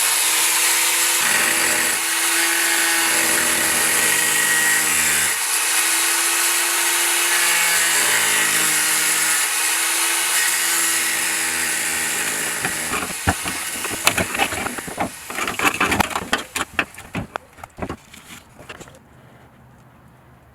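Power tool, most likely an angle grinder, cutting out rusted sheet metal, running loud and steady with a high whine. From about two-thirds of the way through it breaks into irregular sharp cracks for several seconds, then stops.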